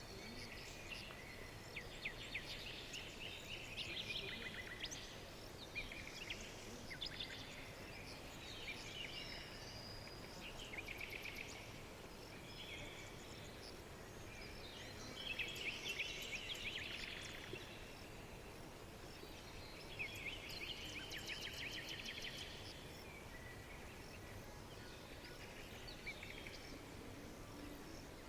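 Small songbirds chirping and twittering in short, overlapping bursts every second or two, over a steady faint background hiss.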